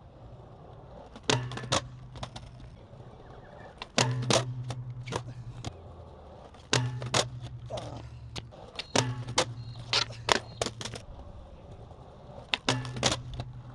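Skateboard wheels rolling on concrete in five separate runs, each with several sharp clacks of the board's wood and trucks hitting and landing on the ground.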